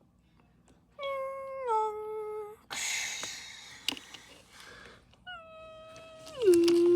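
Electronic sound effects from a toy transit train: a tone that steps down in pitch, a short hiss, then a second tone that slides down and is held.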